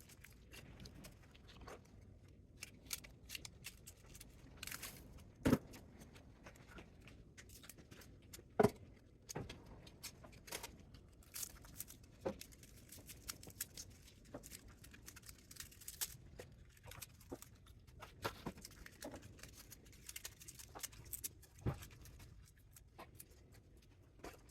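Scattered light clicks, taps and clinks of hand tools and small metal parts being handled while a welding power supply is taken apart for scrap, with two sharper knocks about five and a half and eight and a half seconds in.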